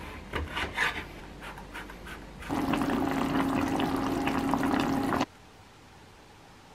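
Kitchen knife cutting through an eggplant on a wooden cutting board, a series of knocks, followed by scored eggplant halves sizzling in hot oil in a frying pan over a steady hum; the sizzle cuts off suddenly about five seconds in.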